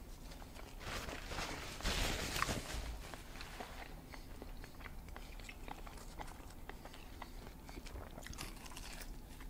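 A person chewing a mouthful of an English muffin breakfast sandwich, with small wet mouth clicks throughout. A brief rustling noise comes about one to three seconds in.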